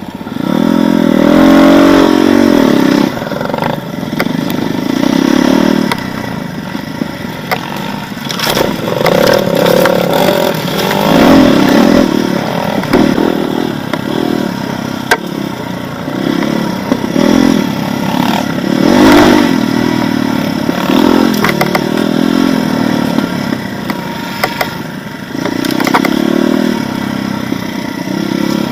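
Enduro motorcycle engine revving up and down in repeated throttle surges, a new surge every few seconds, with scattered sharp knocks and clatter.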